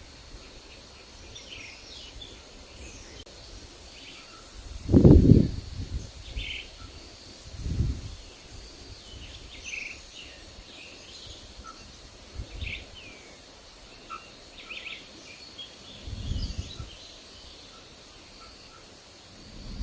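Forest birds chirping, with short high calls scattered throughout over a steady high hiss. Low rumbling wind gusts on the microphone come and go, the loudest about a quarter of the way in, others a few seconds later and near the end.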